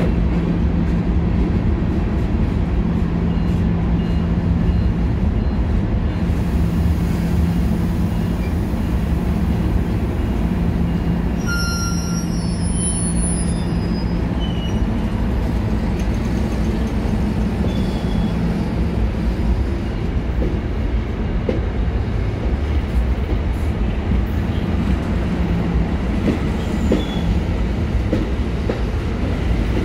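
Commuter train of bilevel coaches pulling away from the platform, with a steady low hum. A few brief high squeals come about twelve seconds in, and near the end the wheels begin to clack over the rail joints as it gathers speed.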